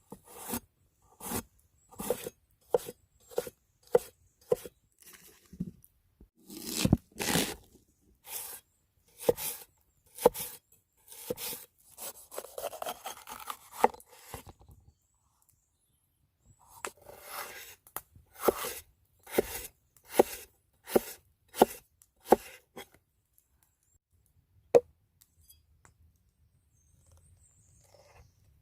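A knife chopping on a wooden cutting board in a run of separate strokes, about one or two a second, with a short stretch of scraping partway through. After a brief pause it chops again, ending with a single stroke.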